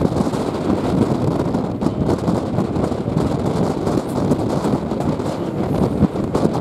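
Steady running noise of a moving heritage train heard from a carriage window, with wind buffeting the microphone.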